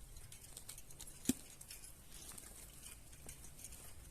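Faint rustling and light ticks of handling a small bird caught in a net, with one sharp click a little over a second in.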